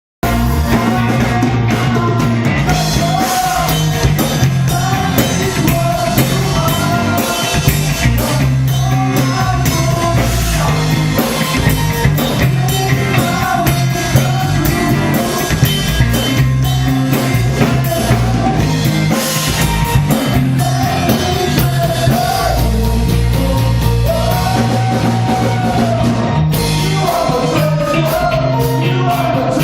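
Rock band playing live with a singer, drum kit and bass, loud and continuous.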